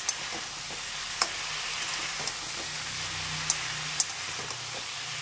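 Water spinach, potato and brinjal sizzling as they stir-fry in an aluminium kadai, with a few sharp clicks of the spatula striking the pan.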